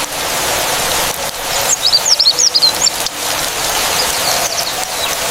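A steady rush of storm noise, with a small bird chirping a quick run of high notes about two seconds in and once more faintly near the end.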